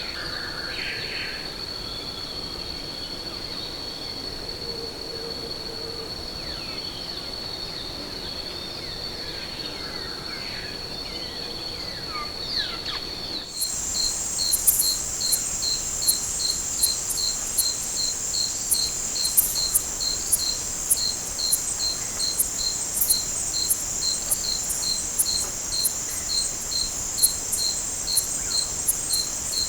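Forest insect chorus: a steady high drone with a few faint bird chirps over it. About halfway through it changes abruptly to a louder, higher insect chorus with a note pulsing about three times a second and scattered sharp ticks.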